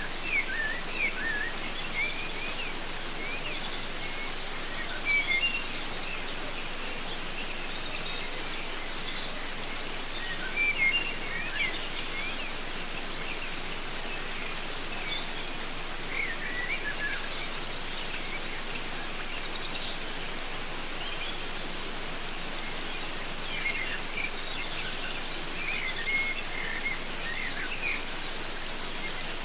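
Waterfall rushing steadily, with birds chirping in short scattered calls over it, loudest about 5 and 11 seconds in.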